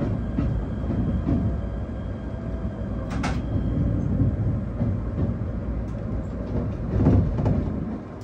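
Electric train running slowly over switches and rail joints: a steady low rumble with wheel clacks at the points, one sharp clack about three seconds in and a louder patch of clacking around seven seconds in, easing off right at the end.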